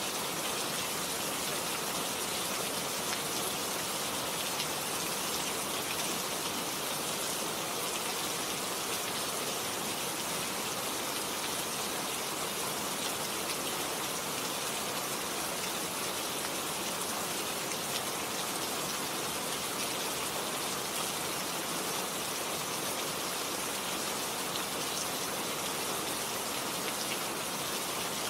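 Steady, heavy rain falling and pattering on surfaces, an even hiss with many small drop impacts.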